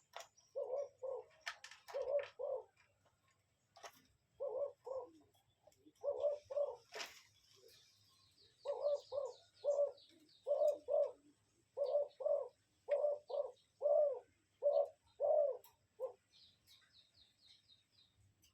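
A bird calling in short, low notes that come mostly in pairs, repeated every second or so and stopping about sixteen seconds in, with faint high chirps in between.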